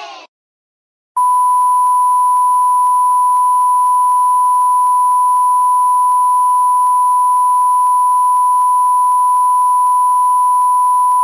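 A single pure beep tone at about 1 kHz, starting about a second in and held steady without a break for about ten seconds, then cutting off abruptly. It is the standard bleep sound effect used to censor words.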